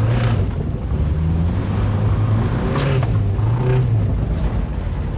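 Mazda MX-5's four-cylinder engine revving up and down several times while the car is drifted. The engine has a rod knock and is expected to blow.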